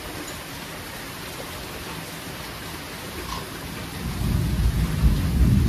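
Steady rain falling, and about four seconds in a deep roll of thunder swells up and keeps rumbling over the rain.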